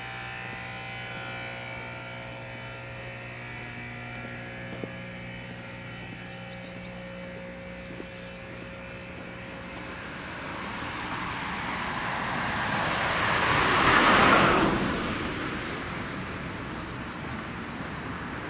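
A car passes by: its tyre and engine noise swells over several seconds, peaks about three-quarters of the way through, and fades quickly. Before it, a steady hum with several tones fades slowly.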